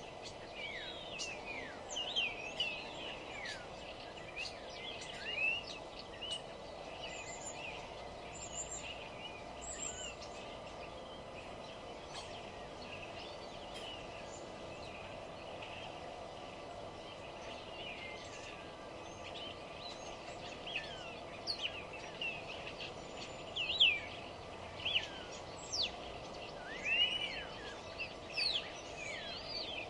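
Several small songbirds singing and chirping, many short quick whistled notes that rise and fall, busiest near the end. A steady low hum runs underneath.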